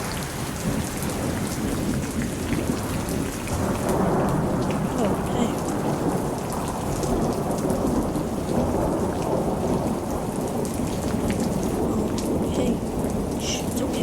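Thunderstorm: steady heavy rain pattering, with a low thunder rumble that swells about four seconds in and carries on through the rest.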